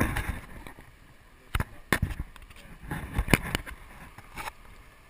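Wind buffeting the microphone in irregular gusts, with sharp blasts about a second and a half, two and three and a half seconds in, over a low rushing hiss.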